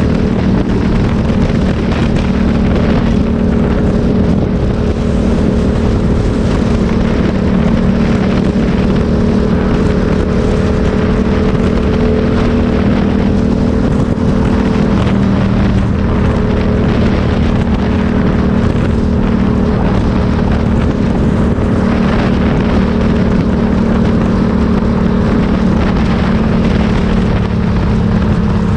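Motorcycle engine running at a steady speed, with wind rushing over the microphone. The engine note holds level and shifts slightly about halfway through.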